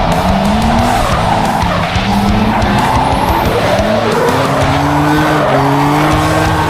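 Toyota 1UZ V8 in a BMW E46 drift car at high revs through a drift, with tyres squealing. The engine note rises repeatedly in glides and steps, then holds a steadier tone over the last couple of seconds.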